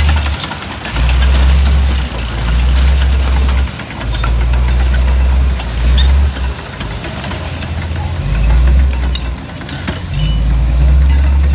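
Heavy diesel engine of earthmoving machinery working. Its deep drone swells and drops every second or two as the load changes, with scattered metallic clanks and rattles over it.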